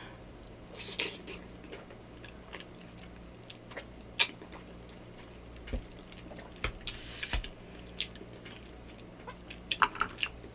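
Close-miked eating sounds from a person eating yakamein noodles: scattered wet mouth clicks and smacks while chewing, with two longer hissing sounds, about a second in and around seven seconds in.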